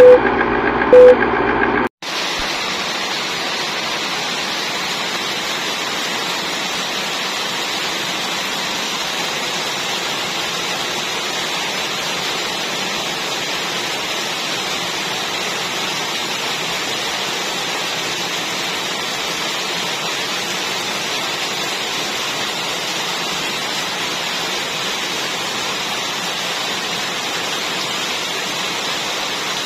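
Steady heavy rain falling, an even, unbroken hiss. About two seconds in it takes over from a snatch of guitar intro music with a few beeps, which cuts off suddenly.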